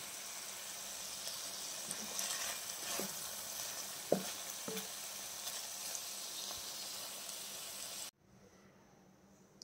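Chicken and cauliflower pieces sizzling as they fry in a pan, with a few light knocks of the wooden spatula against it around three to five seconds in. The sizzle cuts off suddenly near the end.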